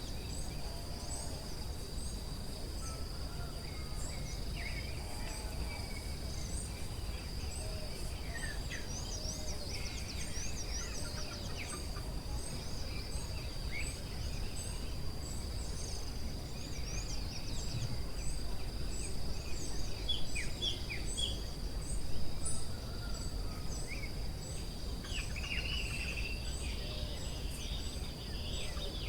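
Forest ambience: insects drone steadily at a high pitch while a short high chirp repeats about once a second and assorted birds call here and there, with a louder burst of birdsong a little past the middle.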